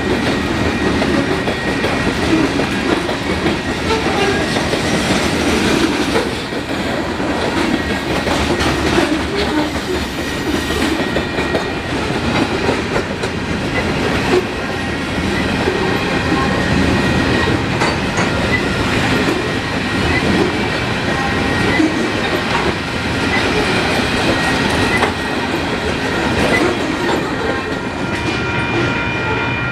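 Canadian Pacific freight train's cars rolling steadily past, with a continuous rumble and the clickety-clack of wheels over the rail joints.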